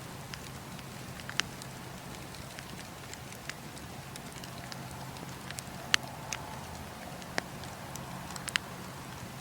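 Campfire burning: wood crackling over a steady hiss, with sharp pops every second or two. The loudest pop comes about six seconds in.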